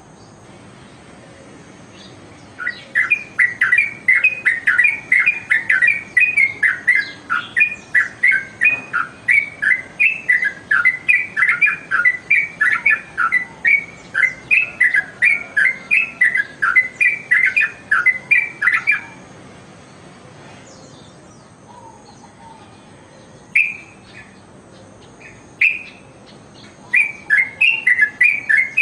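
Yellow-vented bulbul (trucukan) singing a long run of quick, sharp chattering notes, about three a second. After a pause broken by a couple of single notes, the chatter starts again near the end.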